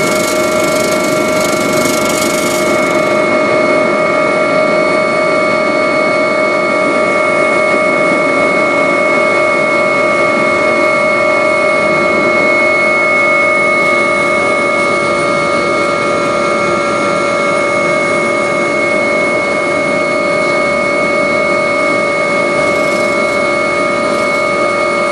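Agusta helicopter's turbine engine and rotor running, a loud steady whine of several held tones over a dense rushing noise. A high hiss drops away about two and a half seconds in.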